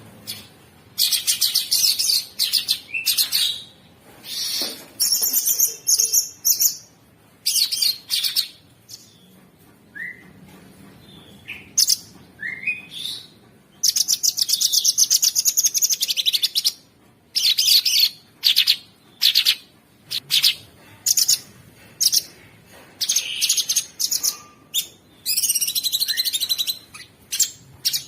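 Cucak sungkok singing in repeated bursts of fast, harsh rattling trills, the coarse nonstop 'ngebren' style, with a few short rising whistles between them.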